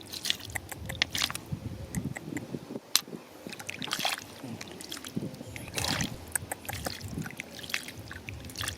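Wet river stones and gravel being dug through in shallow water: irregular sharp clicks and knocks of stone on stone over sloshing and splashing water.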